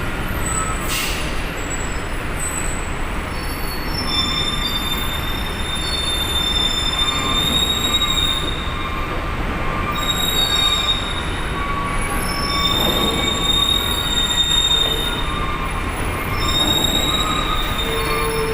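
Steady low rumble of engines on a ferry's vehicle deck, with thin, high-pitched metallic squeals that come and go.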